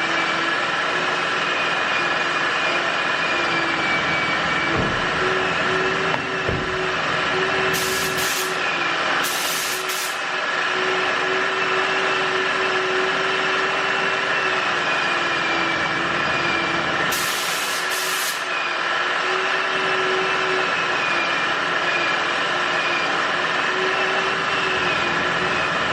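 Automotive paint spray gun spraying clear coat: a steady, unbroken hiss of compressed air with a constant hum underneath.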